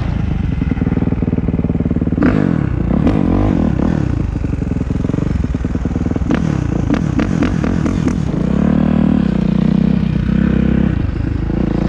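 Kawasaki KX450F dirt bike with a Pro Circuit exhaust, its single-cylinder four-stroke engine revving up and down repeatedly as it is ridden, with a longer, stronger rev about two-thirds of the way through.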